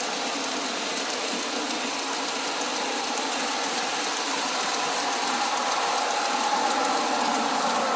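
Model Santa Fe E9 passenger locomotive and its cars running along the track, with a steady motor hum and wheel noise that grows gradually louder as the train approaches.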